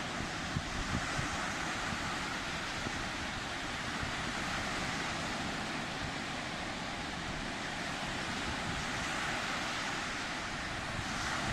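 Sea waves breaking and washing on the shore in a steady, continuous rush, with some rumble of wind on the microphone.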